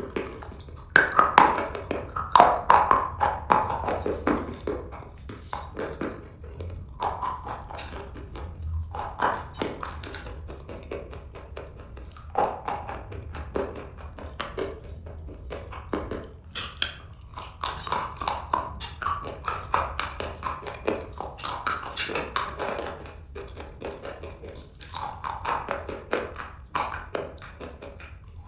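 Close-up chewing and crunching of dry black chalk pieces: dense runs of short, sharp crunches coming in clusters with brief pauses between bites.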